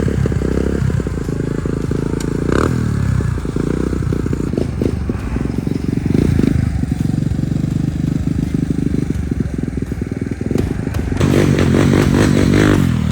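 Dirt bike engine running and revving: the pitch drops off after a rev about two and a half seconds in, and climbs again with a louder rev near the end.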